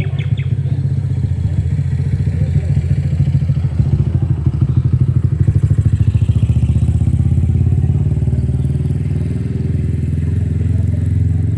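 A small engine running steadily with a low, pulsing rumble.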